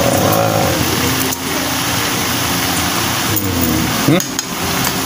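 Diced squid and papaya sautéing in a hot wok: a steady sizzling hiss that dips briefly about a second and a half in.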